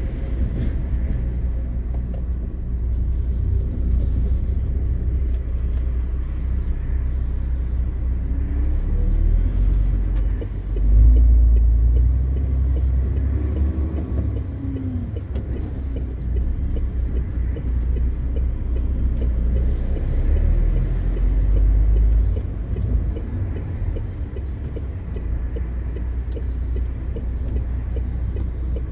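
MAN TGX 520 truck's diesel engine and road rumble heard from inside the cab while driving: a steady low drone that swells louder about eleven seconds in and again around twenty to twenty-two seconds.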